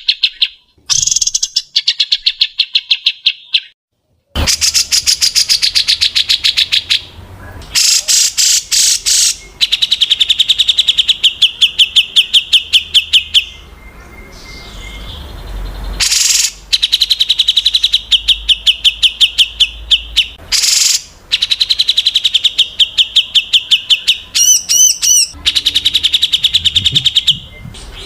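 White-rumped shama (murai batu) singing long, fast trills of rapidly repeated notes, broken off abruptly several times, with a short burst of higher, rising-and-falling notes near the end. This is the kind of fill-in (isian) song that bird keepers play to train caged birds.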